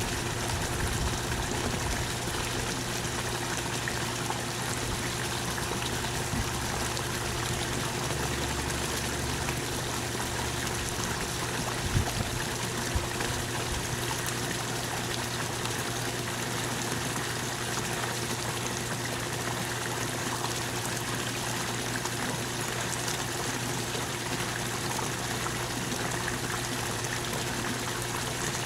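Steady rain falling and trickling, an even hiss of water with no break, and a couple of small knocks about twelve seconds in.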